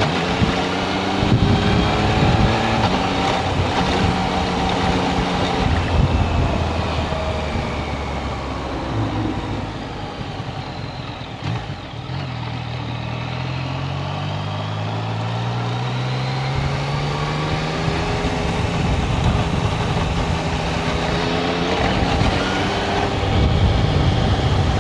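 Yamaha Tracer 900 GT's three-cylinder engine pulling along the road, with wind rush. The revs rise at the start, hold, ease off about ten seconds in, then climb again and settle at a steady cruise.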